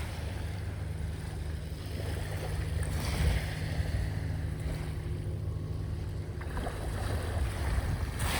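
Sea waves washing on the shore, surging near the start, about three seconds in and again at the end, over a steady low rumble of wind on the microphone.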